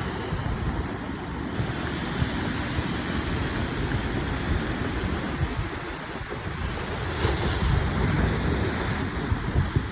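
Sea surf washing on the shore, with wind buffeting the microphone in uneven gusts.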